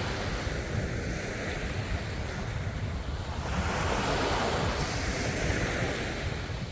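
Ocean waves washing onto the shore, a continuous surf hiss that swells as a wave comes in about halfway through and eases off near the end, over a low rumble.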